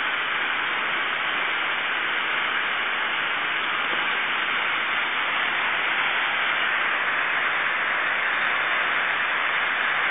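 Garden hose spraying a fine mist of water over a bird cage and its roof to cool it, a steady hiss of spray.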